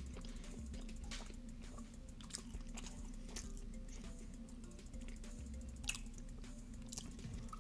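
Quiet close-up chewing of the last mouthful of a gooey chocolate brownie, with soft wet mouth clicks, over a steady low hum.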